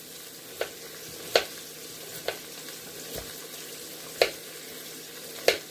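Knife chopping vegetables on a cutting board: about five sharp, irregularly spaced knocks over a faint steady hiss.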